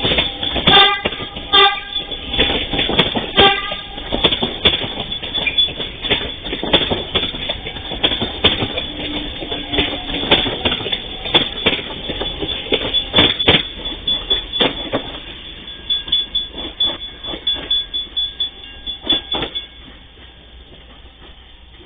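Electric commuter train passing over a level crossing, its wheels knocking over the rail joints in a fast irregular clatter, with a horn sounding in the first few seconds. The knocking thins out and fades, and stops about twenty seconds in as the train clears the crossing.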